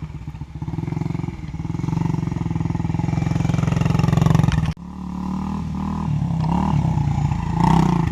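Small pit bike engine running under throttle, building in loudness over the first four and a half seconds, then cut off abruptly; it picks up again with revs rising and falling as the bike rides around.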